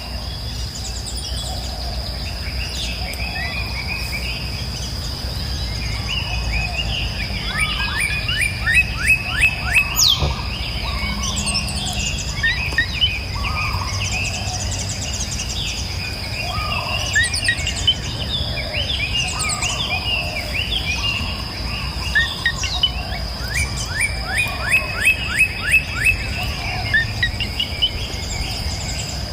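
Several songbirds singing and calling over one another, with quick runs of repeated notes, about five a second, around eight seconds in and again near the end. A steady high insect drone runs underneath, along with a low, even rush of river water.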